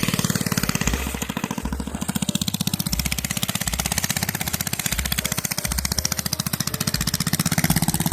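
Mini bike's single-cylinder engine, fitted with a new PZ19 round-slide carburetor, running with a steady, even firing beat that gets a little louder near the end.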